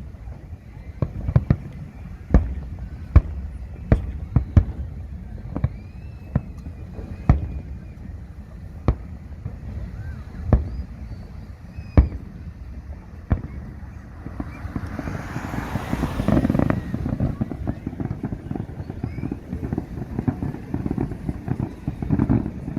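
Aerial fireworks bursting: a string of sharp bangs, roughly one a second, then about two-thirds of the way through a dense hissing crackle swells up and gives way to rapid pops.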